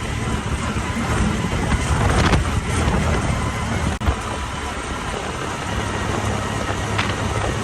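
Honda Talon 1000R side-by-side's parallel-twin engine running while driving, under a steady wash of wind noise, with a sharp knock about two seconds in and another near the end.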